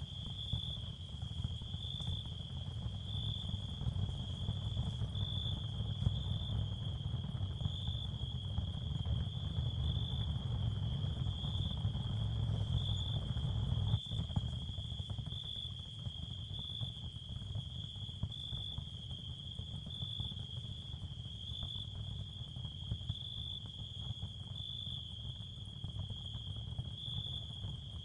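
Ambient nature sound bed of crickets trilling steadily in a high, slightly pulsing chorus, over a low rumble that swells and then eases about halfway through.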